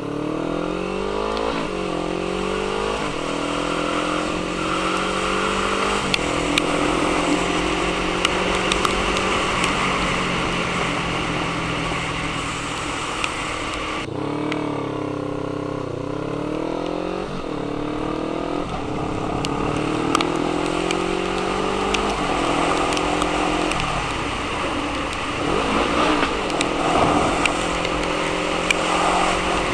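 Motorcycle with an aftermarket Black Widow stainless-steel full exhaust system, ridden hard: the exhaust note climbs in pitch and drops back at each gear change. About halfway through it falls away as the throttle is closed, then pulls up through the gears again.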